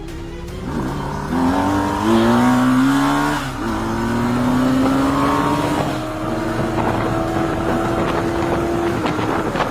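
Motorcycle engine accelerating hard through the gears: the pitch climbs, drops back at two upshifts in the first few seconds, then rises slowly in a long pull before easing off near the end.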